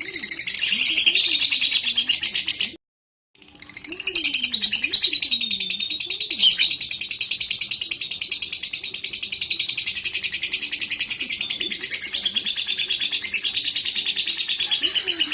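Lovebird chattering in a long, rapid, unbroken trill, with a brief cut to silence about three seconds in.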